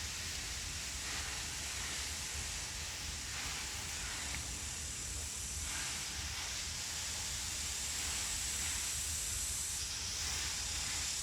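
Cicadas buzzing in a steady, high, hiss-like chorus, over a low hum.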